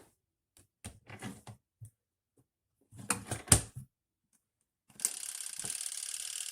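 Mechanical clicking from a compact twin-tub washing machine's controls, in two clusters of short ratcheting clicks, the loudest about three and a half seconds in, typical of a twist timer dial being wound. About five seconds in a steady hiss starts.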